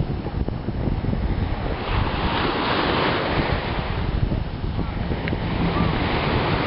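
Wind buffeting the microphone and water rushing past on a moving jet ski, a steady loud noise with no clear engine note.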